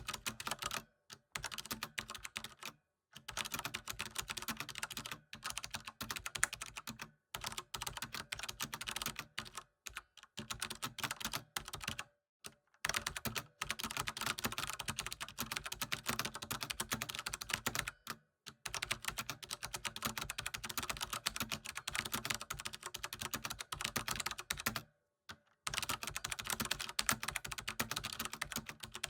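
Computer keyboard typing: fast, continuous key clicks in runs of a few seconds, broken by brief pauses.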